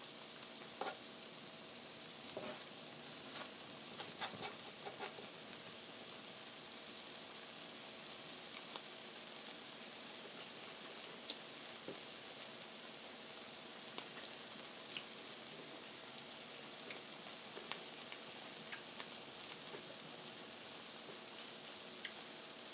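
Chicken birria tacos frying on a flattop griddle that has just been turned up: a steady hissing sizzle. Scattered sharp pops and clicks come through it, most in the first few seconds.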